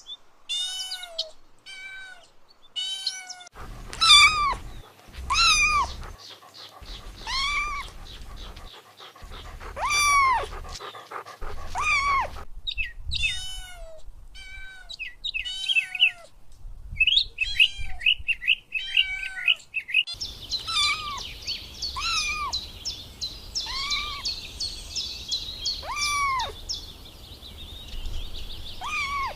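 A young kitten meowing over and over, high-pitched cries that rise and fall, one every second or two: the calls of a kitten separated from its mother. Rapid high chirping joins in for the last third.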